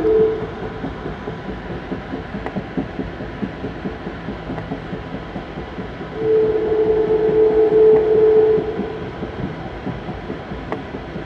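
Amtrak passenger train rolling along, heard from on board: a steady rumble with the clatter of wheels on the rails. About six seconds in, the locomotive horn sounds one long chord-like blast lasting about two and a half seconds.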